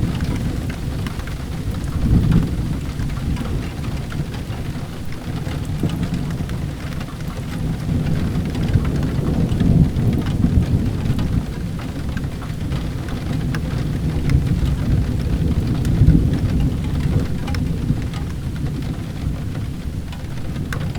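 Steady rain with low rolling thunder that swells up about three times.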